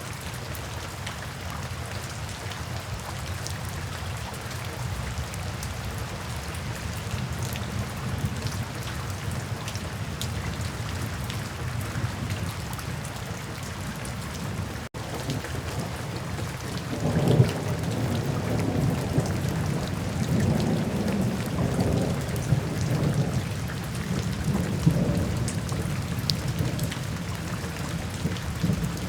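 Steady heavy rain falling, with fine patter of drops, broken by a split-second dropout about halfway through. A little after that a long low roll of thunder rises and rumbles on for several seconds before fading back into the rain.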